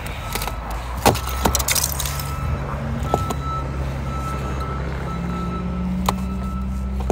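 A vehicle engine running steadily with a low hum, while an electronic beep sounds on and off. A few sharp clicks and knocks are heard, the loudest about a second in.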